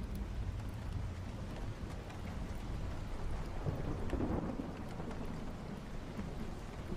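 Steady rain with thunder rumbling low underneath, swelling briefly about four seconds in.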